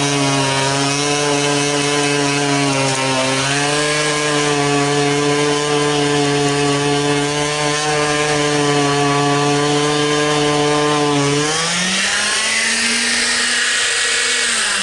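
Electric vibrating sander running steadily against freshly packed cement, vibrating it so air bubbles rise out of the patch. About twelve seconds in its hum jumps higher in pitch, and at the end it winds down.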